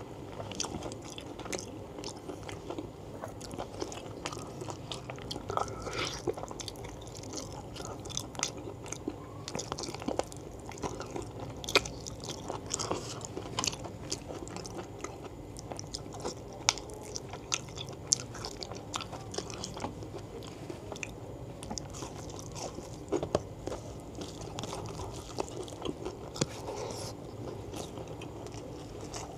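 A person chewing a mouthful of gulai tunjang, beef-foot tendon and fat with rice in spicy curry, with many short sharp clicks and mouth noises scattered throughout.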